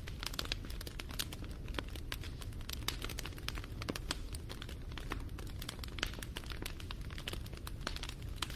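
Wood fire crackling: dense, irregular snaps and pops over a steady low rumble of burning.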